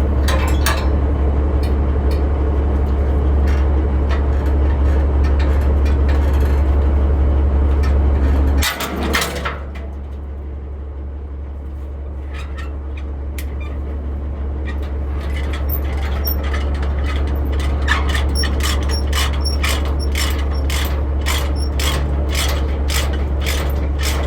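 Semi truck engine idling with a steady low drone. About nine seconds in comes a short loud hiss of air, like air brakes being set, and the drone drops. In the second half comes a steady run of sharp clicks and rattles.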